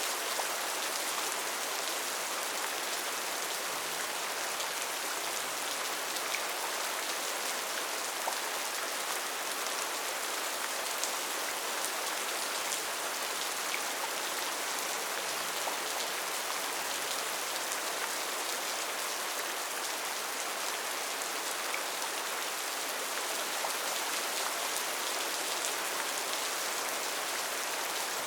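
Steady heavy rain falling in a rainforest, an even hiss with scattered close drop ticks.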